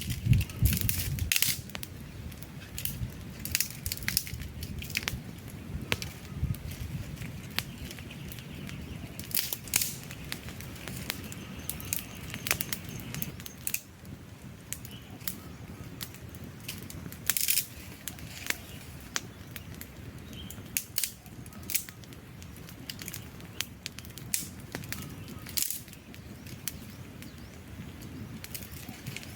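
Wood fire burning, logs crackling and popping at irregular intervals over a low steady rush of flame.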